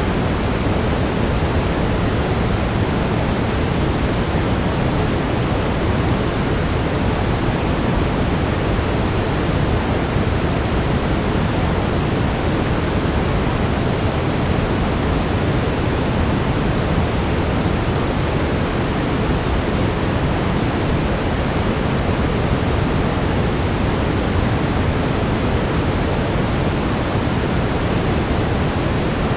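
Brown noise: a steady, even rushing hiss weighted toward the low end, with no changes.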